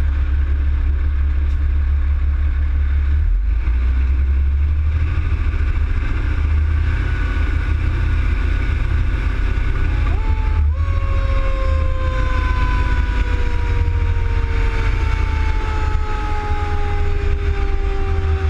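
Heavy low rumble of a vehicle on the move. About ten seconds in, a fire engine's siren winds up quickly, then winds down slowly, its pitch falling steadily to the end.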